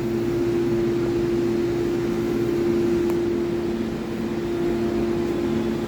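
Gildemeister CTX400-S2 CNC lathe running under power while it machines a part: a steady machine hum with one held tone that does not change.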